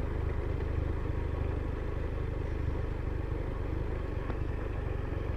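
Motorcycle engine running steadily at low revs, an even low rumble.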